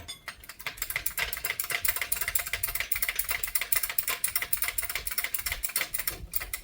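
Hand ratchet wrench clicking rapidly as a nut or bolt is wound on the suspension, a quick, uneven run of metallic clicks that stops near the end.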